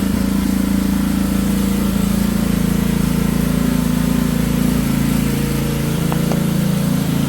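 Small petrol engine of a pressure washer running steadily.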